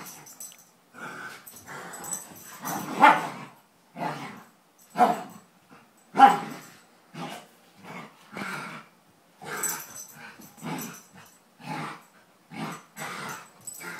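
Dogs playing together, giving short barks and growls in quick separate bursts, loudest about three, five and six seconds in.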